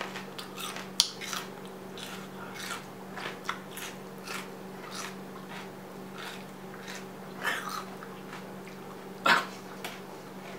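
A mouthful of raw red onion being chewed: a steady run of short, crisp crunches, with one louder crunch about nine seconds in.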